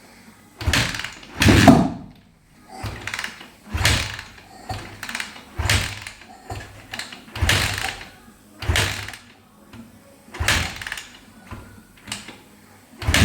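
A 2017 Honda CRF450R's single-cylinder engine being cranked over in repeated start attempts: about ten thumps, each with a short rush of noise, roughly one a second, without settling into a steady idle.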